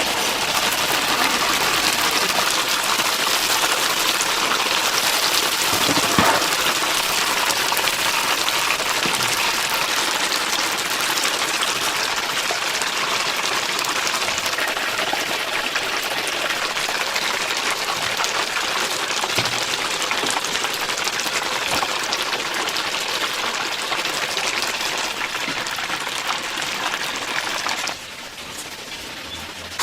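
Chicken deep-frying in hot oil: a steady, dense sizzle with fine crackling. It drops in level near the end.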